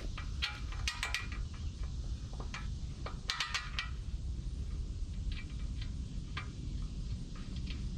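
Steel pins and hand tools clinking against a backhoe bucket's pin mounts in two short clusters of ringing metal clinks, followed by scattered lighter ticks, over a steady low rumble.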